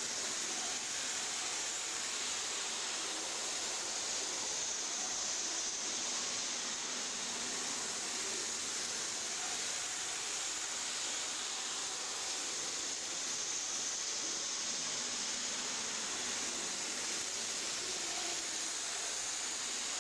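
Steady, even hiss with a high, thin edge and no distinct events.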